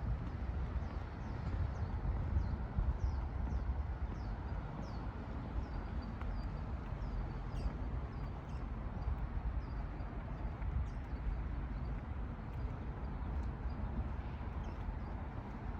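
A small bird singing a run of short, high, down-slurred chirps, about two a second for the first few seconds, then scattered single notes. Under it is a steady low rumble.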